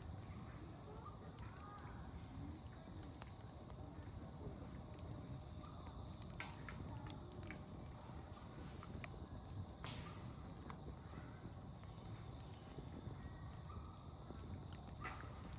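Wood campfire burning with a low rumble and occasional sharp crackles. An insect trills in rapid pulses over it, and children's voices are faint in the distance.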